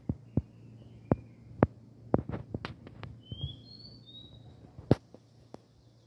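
A bird singing short whistled notes, a gliding phrase in the first second or so and a pair of higher notes a little past halfway, over a steady low hum. About a dozen sharp knocks are scattered through and are the loudest sounds.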